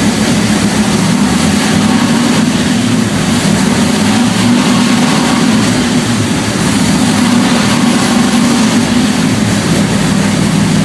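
Jon Kaase 520-cubic-inch Boss 429-style V8 with a big cam, running steadily on an engine dyno during its first run, not long after a cold start.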